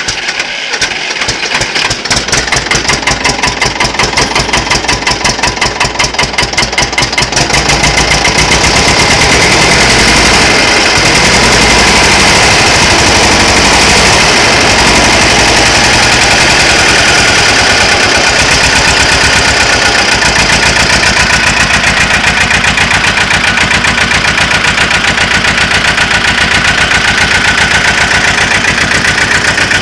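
Ursus 335 tractor's diesel engine on a cold start: it catches and runs with an even, loud firing beat that builds over the first several seconds, then settles into steady running from about eight seconds in.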